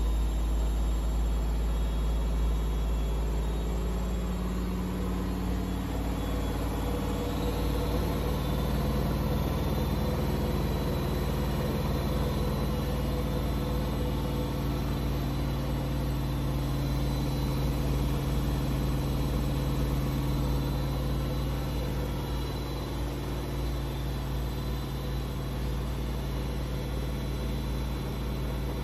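Washing machine running: a steady motor hum whose pitch shifts about four to eight seconds in and then holds.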